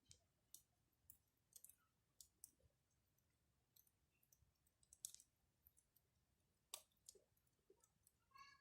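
Wood fire crackling faintly, with scattered irregular pops and snaps. A short pitched call is heard near the end.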